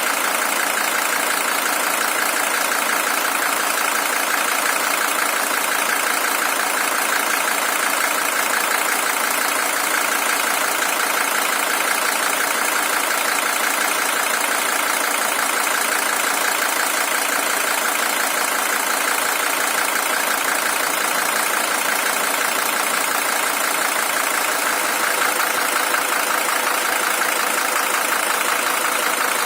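Mercedes-Benz OM617 five-cylinder diesel engine, the original engine with 620,000 km on it, idling steadily.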